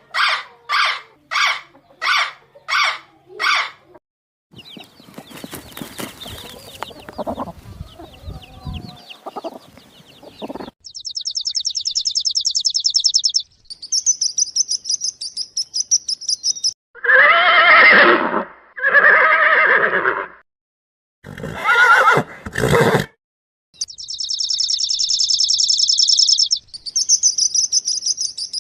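A run of different animal calls in quick succession: about eight short, evenly spaced calls in the first four seconds, then high-pitched bird trills, two loud drawn-out calls in the middle, and more high bird trills near the end.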